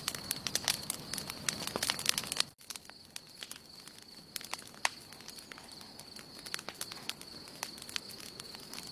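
Wood campfire crackling with irregular sharp pops over a steady faint high tone. About two and a half seconds in the sound drops suddenly, and the crackling goes on quieter and sparser.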